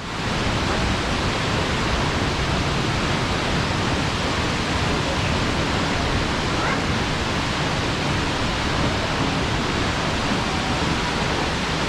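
A tall waterfall, dropping about 38 m, pours steadily, making a constant, even rush of falling water.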